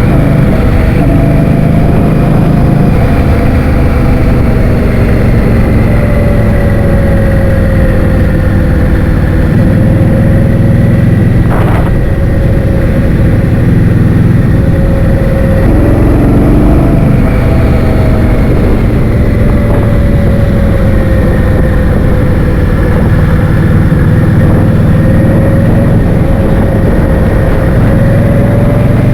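Heavy wind noise buffeting the microphone of a moving scooter, over a steady motor tone that drifts slowly up and down in pitch as the speed changes. A single short click about twelve seconds in.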